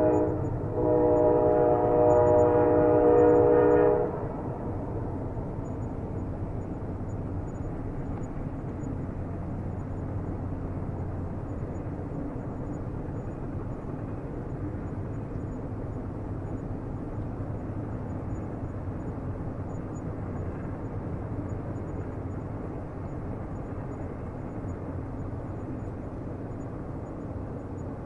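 Train air horn sounding a chord, one blast of about three seconds that cuts off about four seconds in, followed by the steady low rumble of a train running.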